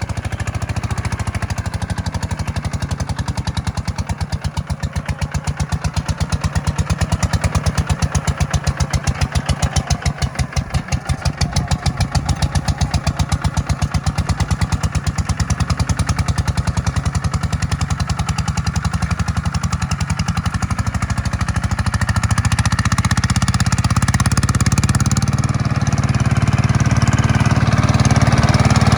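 Tractor's diesel engine running under load with a rapid, even beat, growing louder and deeper in the last several seconds.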